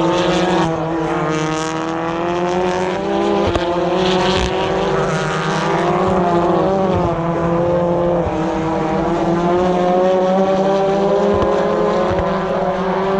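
British Touring Car Championship cars' turbocharged four-cylinder engines racing past, several at once, their pitch rising and falling through gear changes, with a few sharp cracks.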